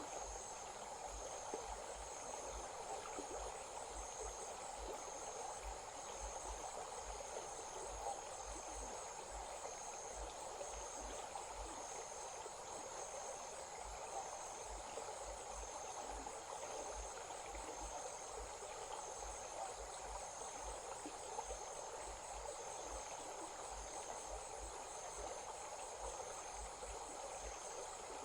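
Crickets calling in a steady, high-pitched pulsing chorus over the continuous rush of a small stream.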